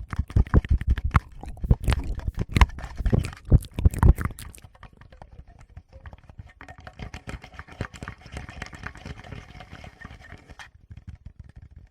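Fingertips tapping and rubbing directly on a Tascam recorder's microphones: rapid dull thumps for the first four seconds or so, then softer, finer scratching and clicking.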